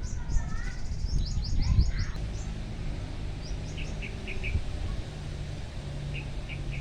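Small birds chirping in quick runs of short, high notes, one fast series of about eight in the first two seconds and shorter groups of three or four later, over a steady low rumble.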